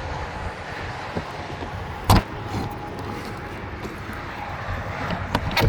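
Latch hardware on the truck being worked by hand: one sharp metal clunk about two seconds in, then a quick run of clicks near the end as it catches. It had not been hooked shut properly.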